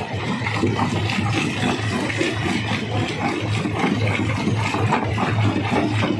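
Large stone crusher running under load: a steady low machine hum with a dense, irregular clatter of rocks being broken and tumbling through it.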